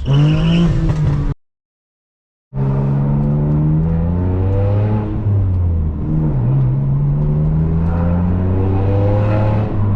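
BMW M4 F82's twin-turbo straight-six running through its AWE SwitchPath exhaust while driving, engine pitch rising and falling gently. The sound cuts out for about a second near the start, then the engine comes back steady.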